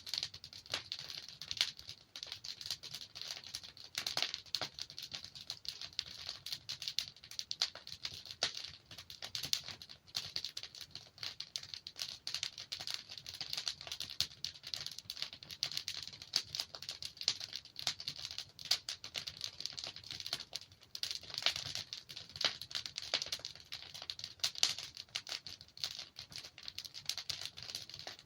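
Wood fire crackling and popping steadily: a dense run of small snaps and pops over a soft hiss of burning logs.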